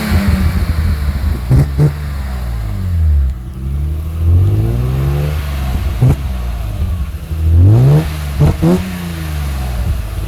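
BMW E36 M3's 3.0-litre straight-six revved through a Hartge exhaust muffler. The revs fall back, climb again about four seconds in, then rise quickly with two short blips near the end before dropping once more.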